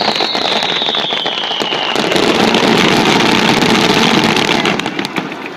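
Fireworks display: many sharp crackling pops from bursting shells, with a falling whistle over the first two seconds. A dense rush of crackle swells about two seconds in and fades near the end.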